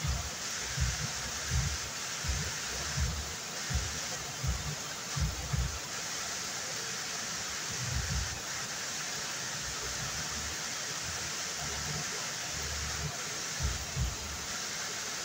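Waterfall rushing in a steady, even roar of falling water, with irregular low thumps on the microphone, most often in the first few seconds.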